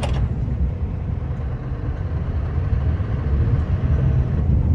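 Scania R560 plow truck's V8 diesel engine running with a steady low rumble while the truck drives along the snowy road.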